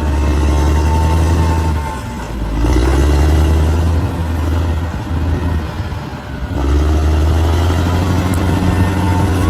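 Bulldozer's diesel engine running with a steady low note. The note breaks and changes about two seconds in, wavers and weakens in the middle, and settles back to steady near the end as the load on the machine changes.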